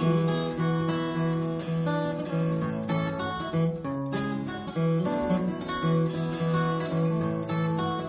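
Guild D40 Bluegrass dreadnought acoustic guitar played solo in an instrumental break, strummed and picked chords in a steady rhythm.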